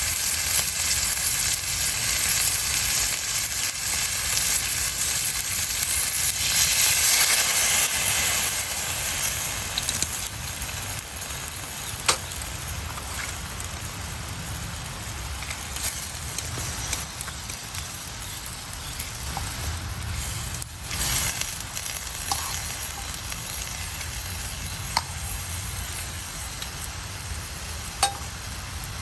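Food frying in oil in a pan over a campfire: a steady sizzle, loudest about seven seconds in and then softer. A few sharp pops break through it.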